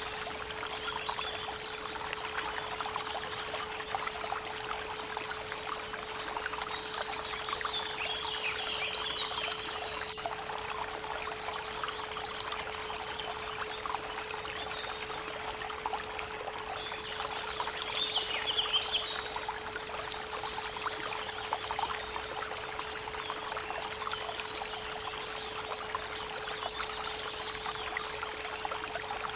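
A steady 432 Hz pure tone sounding over the continuous rush of a creek's running water. Birds sing in two short spells of chirps and trills, one several seconds in and another a little past the middle.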